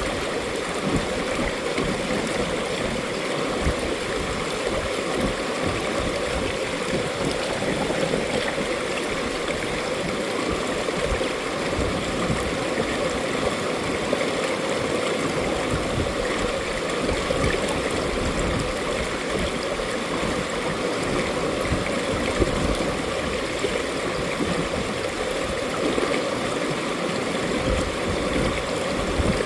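Mountain valley stream flowing steadily over rocks, an even rushing and gurgling of water.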